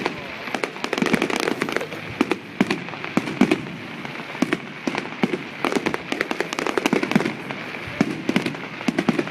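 Fireworks going off: a dense, irregular run of bangs and crackles, several a second, over a steady background hiss.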